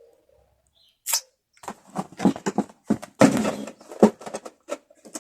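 Food being chewed close to the microphone: after a second of quiet, a quick, irregular run of short crunching clicks and mouth noises.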